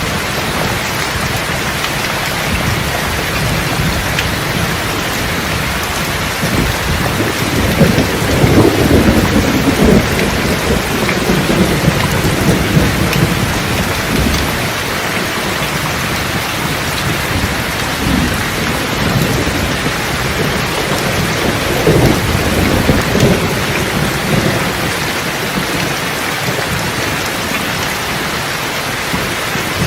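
Steady heavy rain falling, with rolls of thunder rumbling: a long one from about a quarter of the way in, and a weaker one past the middle.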